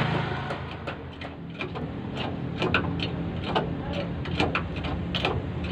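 Tools clinking and tapping on a truck wheel during tyre removal: a string of short, sharp metallic clicks and knocks at irregular intervals, a few a second, over a low steady engine hum.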